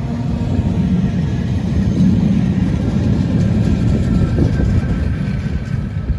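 The 1943 BCFe 4/4 2 electric railcar and its vintage coaches pass close by on the metre-gauge Bière–Apples–Morges line: a steady rumble of steel wheels on rail. It is loudest about two seconds in, then eases slightly as the carriages roll past.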